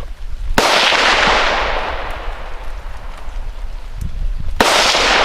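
Two rifle shots about four seconds apart, each sharp crack followed by a long echo that dies away over a couple of seconds.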